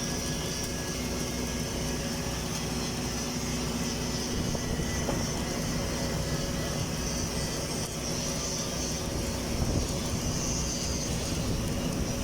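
Steady hum of running machinery, an engine-like drone with a few constant tones and a hiss above it, unchanging throughout.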